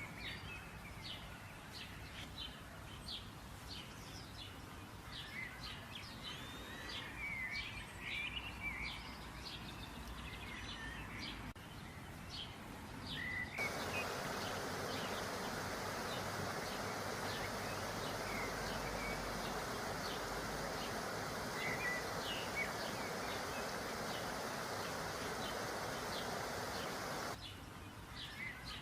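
Small songbirds chirping with many short, rapid calls. About halfway through, a steady hissing buzz starts abruptly over them and cuts off just as suddenly near the end.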